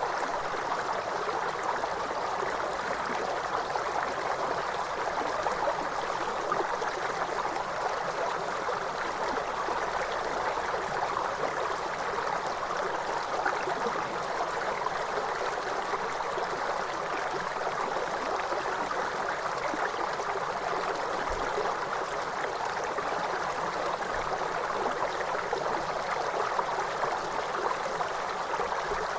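A waterfall's falling water making a steady, unchanging rush.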